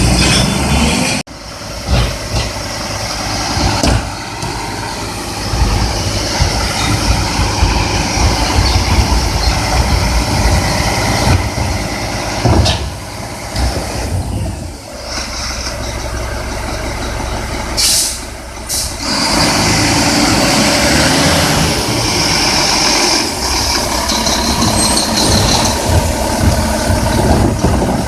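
Garbage truck's diesel engine running, with an air-brake hiss and scattered knocks and clanks over its steady rumble.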